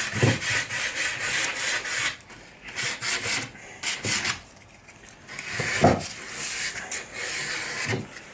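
Sandpaper rubbing back and forth across a pallet-wood cabinet door frame by hand, in bursts of strokes with short pauses: the final sanding before painting.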